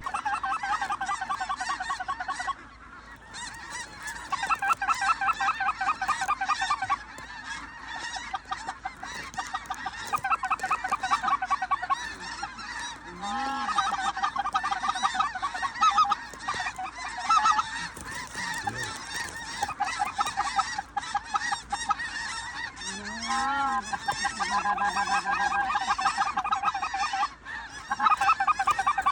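A dense chorus of many geese calling, overlapping honks and yelps that swell and fade without a break.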